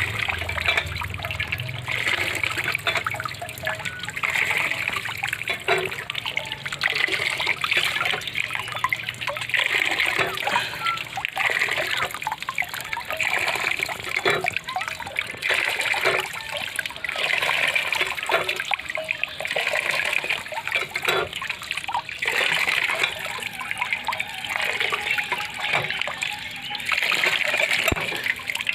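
Water trickling and splashing without a break.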